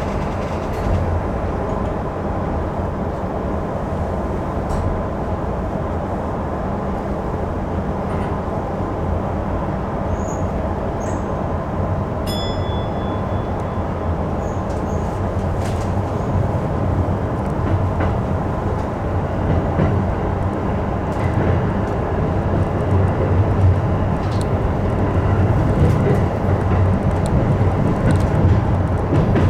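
Electric commuter train rumbling steadily, heard from the cab end, a little louder over the second half. A short high beep sounds about twelve seconds in.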